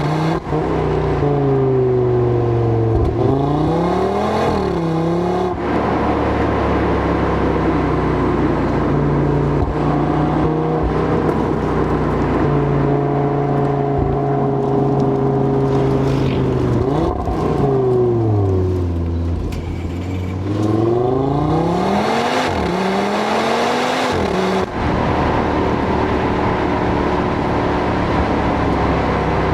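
Audi RS3's turbocharged 2.5-litre five-cylinder engine driven hard, the revs climbing and dropping sharply at each gear change, with a long slowdown around the middle before it pulls up through the revs again.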